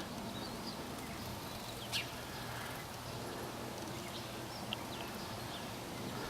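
Pileated woodpecker excavating a hole in wood: a sharp knock about two seconds in and a lighter one near five seconds, over a steady outdoor hiss with a few faint high bird chirps.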